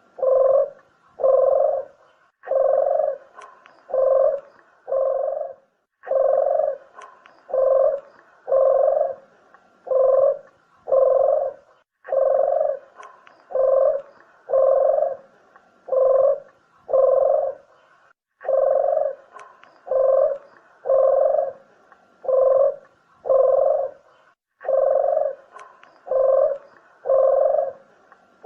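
Puter dove (Barbary dove) cooing, a lure call: phrases of about five low coos, each phrase starting again every six seconds or so.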